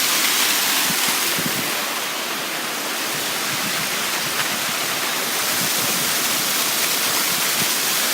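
Waterfall rushing: a steady, even spray of falling water over rock, close by.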